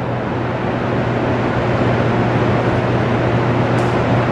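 Hoover Dam's hydroelectric generators running, a steady low hum with an even rushing noise over it.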